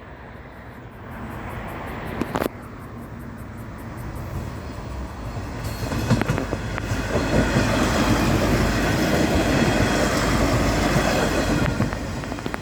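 Diesel passenger railcar rolling past slowly. Its rumble grows from about halfway, is loudest a little later, and eases off near the end, with a few wheel clicks over the rail joints as it comes up.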